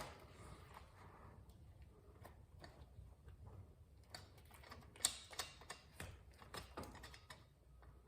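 Scattered light clicks and taps of tools and parts being handled, several a second at times, the sharpest about five seconds in.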